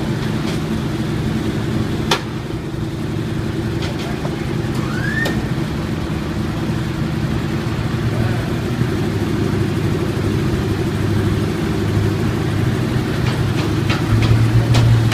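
426 Hemi V8 of a 1970 Plymouth Superbird idling steadily, a little louder near the end, with a sharp click about two seconds in.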